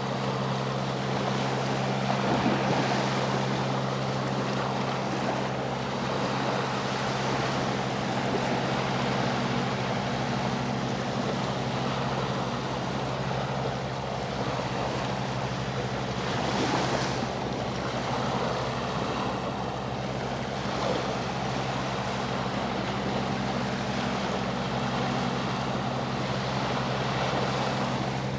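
Sea waves washing and breaking, surging louder a couple of times, over the steady low drone of a boat engine.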